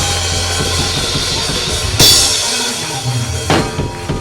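Church band playing: a drum kit over a held bass note, with a loud cymbal crash about halfway through and two heavy drum hits near the end.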